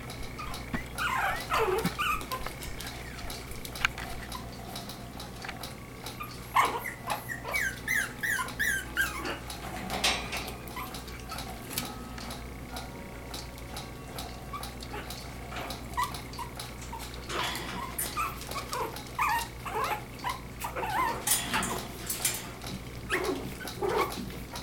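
Yorkshire Terrier puppies playing together, giving short high-pitched yips and whimpers in scattered bursts, with a quick run of yips about eight seconds in.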